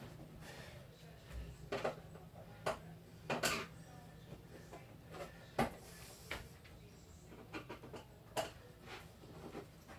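Irregular light clicks and knocks of hands and tools working on an electronic keyboard's plastic casing, over a low steady hum.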